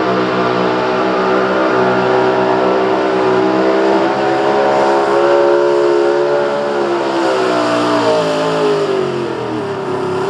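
Chevrolet small-block pulling truck engine running at full throttle under the load of a pulling sled. Its pitch holds high, lifts a little midway, then drops over the last few seconds as the truck slows near the end of its pull.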